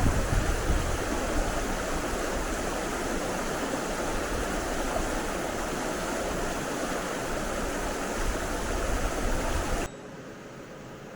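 Mountain stream rushing steadily, with wind rumbling on the microphone near the start. About ten seconds in, the rushing cuts off suddenly to a much quieter, even hiss.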